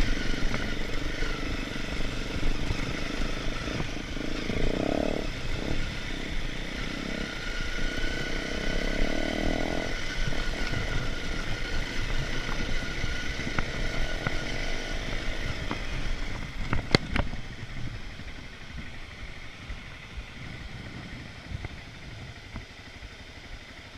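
Motorcycle engine running steadily while riding, with low road and wind rumble. About two-thirds of the way through there is a sharp clack, and after it the engine sound becomes quieter.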